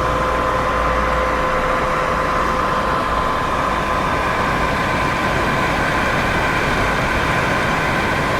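Steady white noise: an even, unbroken hiss and rumble with a faint constant hum running through it.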